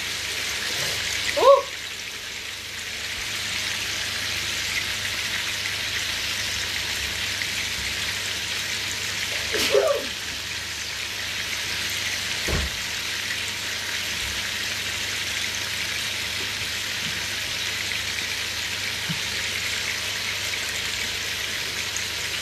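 Chicken pieces frying in a pan, a steady sizzle. Two brief short sounds break in, about a second and a half in and about ten seconds in, and there is a dull knock a little after that.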